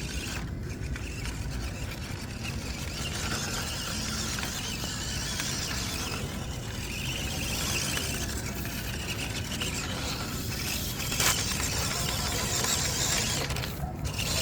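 MN99S D90 scale RC off-road truck's electric motor and gearbox whirring and grinding as it drives, with one sharp knock about eleven seconds in.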